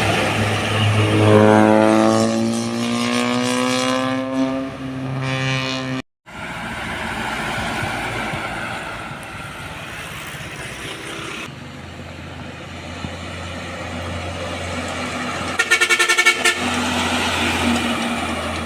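A heavy truck's engine accelerating past, its pitch rising steadily for several seconds, then cut off abruptly. Steady highway traffic noise follows, with a short rapidly pulsing vehicle horn blast about three quarters of the way through.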